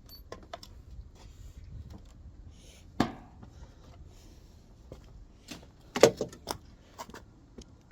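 A few sharp knocks and clatters, one loud knock about three seconds in and a quick cluster of them about six seconds in, over a faint low rumble.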